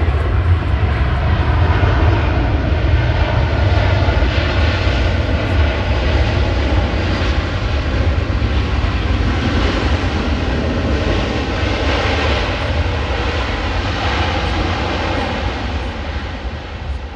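Jet airliner's engines heard close by, a loud steady roar with deep rumble and a faint whine, fading away over the last couple of seconds.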